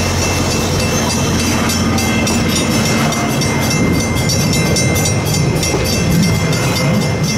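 Passenger coaches of a steam-hauled train rolling past close by: a steady rumble and clatter of steel wheels on the rails and crossing.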